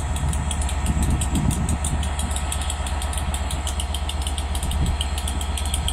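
Class 67 diesel locomotive's two-stroke V12 engine idling at a standstill: a steady deep throbbing rumble with a fast, even clatter over it.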